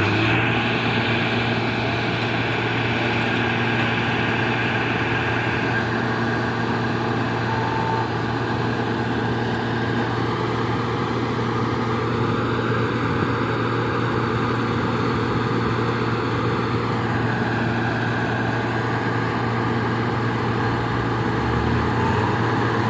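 Heavy diesel engine revved up and held at high, steady revs, working hard to pull a machine stuck in mud. A second, lower engine note rises near the end.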